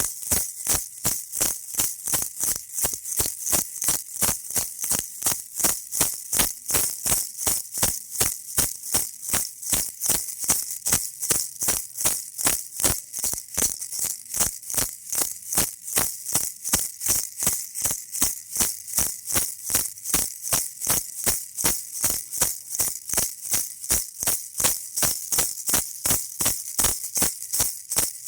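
Baby rattle shaken in a steady, even rhythm, about three shakes a second, each shake a bright, hissy rattle.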